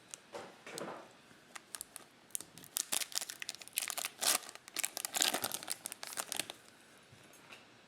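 Plastic trading-card pack wrapper crinkling and tearing as a pack is opened by hand: a few soft rustles, then a dense run of sharp crackles for about four seconds.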